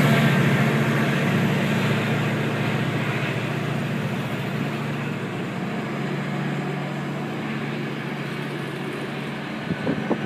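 GO Transit commuter train's diesel locomotive and rail noise, a steady low engine hum that slowly fades as the train moves away. Wind buffets the microphone near the end.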